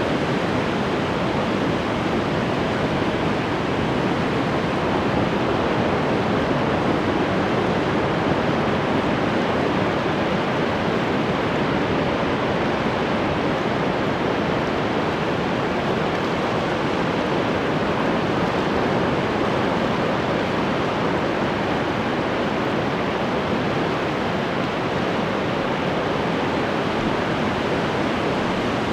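Ocean surf: a steady, unbroken wash of breaking waves, with no single crash standing out.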